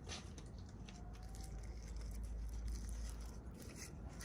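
Faint rustling and scattered light clicks of toy packaging being handled, over a steady low rumble.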